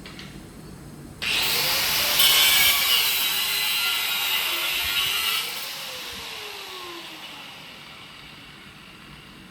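Hand-held angle grinder cutting through poly wall panelling: it starts suddenly about a second in with a loud hissing cut and a wavering motor pitch as it loads. After about four seconds it is released and the motor winds down with a falling whine.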